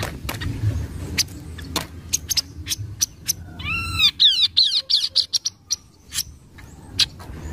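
Kaso-kaso (tepus glagah) songbird calling in full voice: a string of sharp, dry chips and clicks, with a burst of quick looping whistled notes about halfway through.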